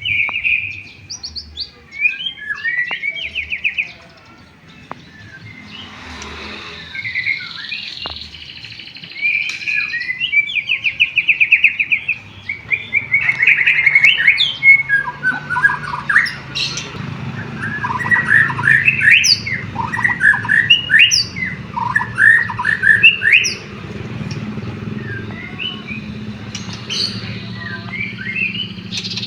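White-rumped shama singing a long, varied song of whistles, fast trills and rattling phrases, worked through with canary-style phrases it has learned, with a brief lull a few seconds in.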